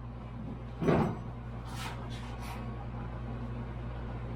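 A heavy cottonwood bowl blank being worked onto a lathe: one solid knock about a second in, then a few lighter clicks, over a steady low hum.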